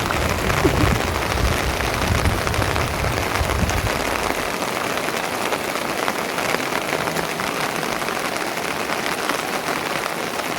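Steady rain falling, a dense hiss with scattered drop ticks. A low rumble underneath stops about four and a half seconds in.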